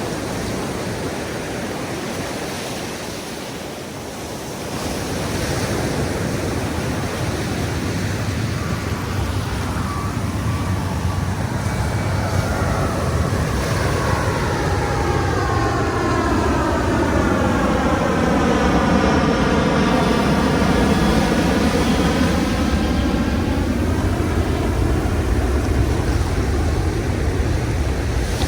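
Ocean waves washing on the beach, with an airplane passing over: it grows louder from about five seconds in and is loudest about two-thirds of the way through.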